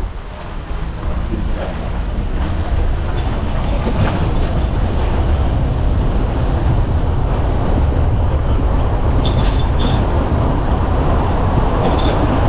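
Steady low rumble of a moving vehicle, building up over the first few seconds and then holding level, with a few brief clicks near the end.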